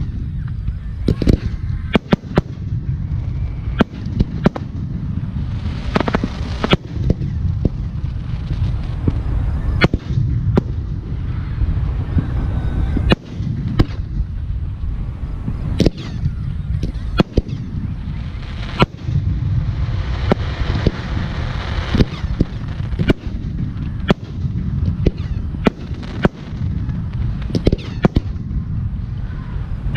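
Aerial fireworks shells bursting: dozens of sharp bangs in quick, irregular succession, over a steady low rumble.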